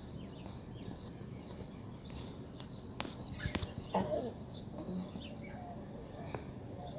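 Small birds chirping repeatedly, with brief high calls, over a steady outdoor background noise. A few sharp clicks come a little after three seconds in, and a short wavering cry follows about four seconds in, the loudest moment.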